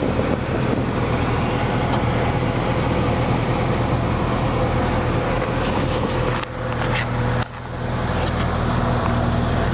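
2006 Jeep Wrangler engine idling steadily under an even hiss, which drops away briefly twice, about six and a half and seven and a half seconds in.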